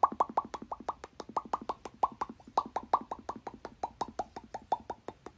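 A rapid, steady stream of short falling 'bloop' sounds, about six a second, each dropping quickly in pitch with a small click at its onset, like a looped cartoon plop effect or a bubbly electronic backing track.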